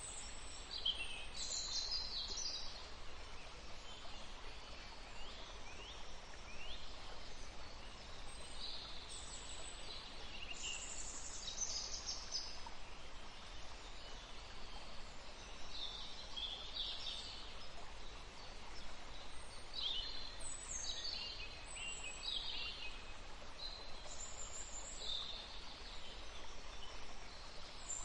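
A river flowing with a steady rush of water, while songbirds sing short, high phrases every few seconds.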